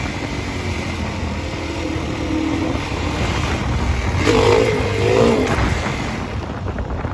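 Dirt bike engine running while riding, its pitch wavering up and down about four to five seconds in.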